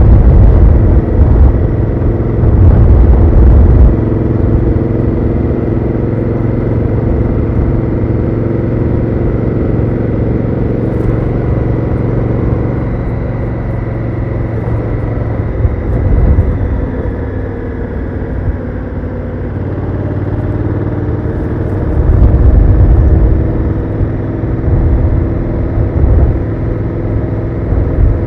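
Honda Africa Twin CRF1000L parallel-twin engine running through its stock exhaust under way, heard from the rider's position. The note stays steady with a heavy low rumble, and it gets louder for a few seconds near the start and again about three-quarters of the way through.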